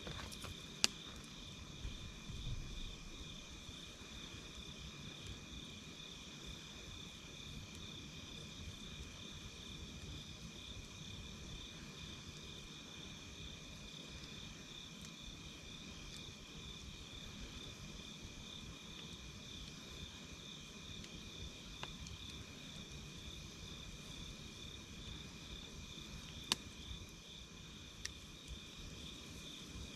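A steady chorus of night insects chirring in a fast, even pulse, with a low crackle from a wood campfire. A few sharp pops come from the fire, one about a second in and another near the end.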